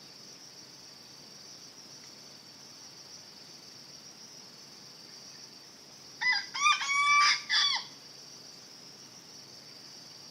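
A junglefowl crows once, a short crow of about a second and a half, about six seconds in, over a steady high chirring of insects.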